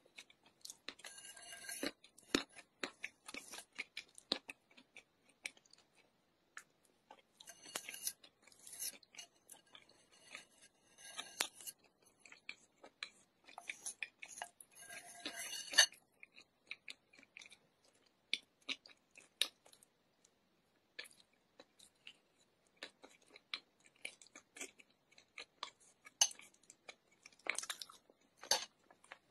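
Chalk being chewed and crunched close to the microphone: clusters of crisp crackling crunches, bite after bite, broken by a few short silent pauses in the second half.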